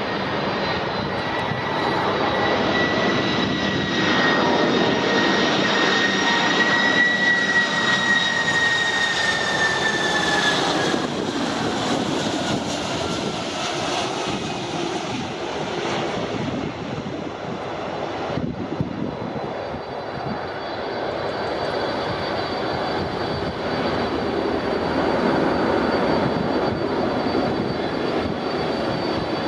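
Jet airliner's engines running loud, with a high whine over a steady noise. Partway through, the whine drops in pitch and fades as the aircraft passes, and the engine noise swells again near the end.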